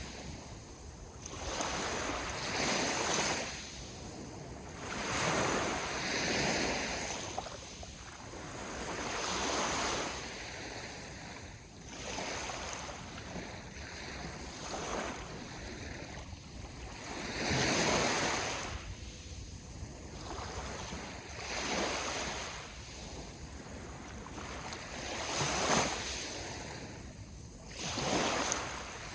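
Sea waves breaking and washing onto the shore, each one swelling to a hiss and falling away, every few seconds.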